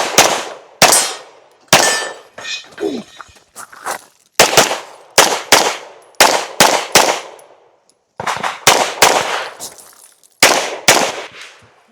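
Handgun shots fired rapidly during a practical shooting stage run, mostly in quick pairs and groups of three, well over a dozen shots in all, each sharp crack ringing out; there are two short pauses between strings, about two seconds in and near eight seconds in.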